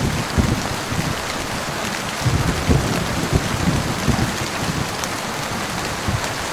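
Heavy rain pouring steadily in a continuous hiss, with irregular short low thumps throughout.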